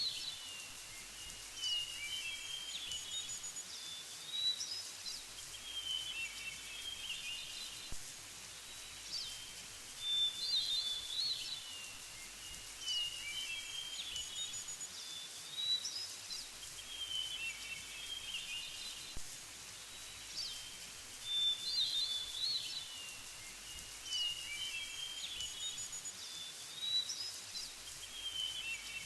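Songbirds singing short, chirpy phrases every few seconds over a steady background hiss.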